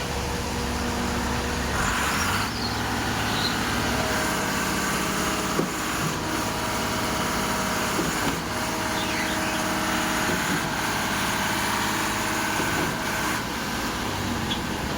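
Diesel engines of a concrete pump and a self-loading concrete mixer running steadily while concrete is pumped, with the engine note shifting slightly about two seconds in.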